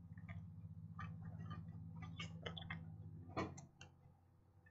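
A person chewing a mouthful of sub sandwich close to the microphone: scattered wet clicks and smacks of the mouth, thickest about two to four seconds in, over a low steady hum.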